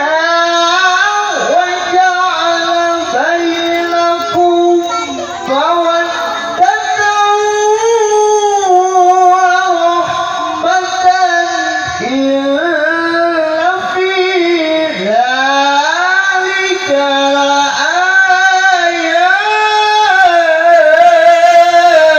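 A male qari's voice in melodic Quran recitation (tilawah): long, high held notes with gliding, ornamented turns between them, sung without pause.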